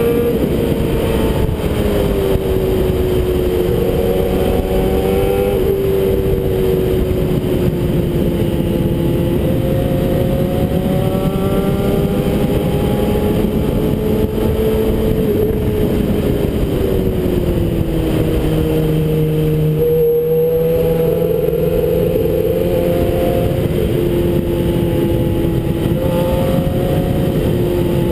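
Suzuki GSX-R600's inline-four engine pulling under steady throttle at road speed, its pitch rising and falling gently as the rider works the throttle through the curves, dipping lower about two-thirds of the way through. A continuous rush of wind over the bike-mounted camera runs underneath.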